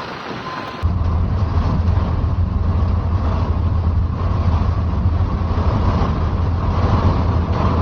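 Storm wind buffeting the microphone: a loud, steady low rumble with a rushing hiss over it, starting abruptly about a second in.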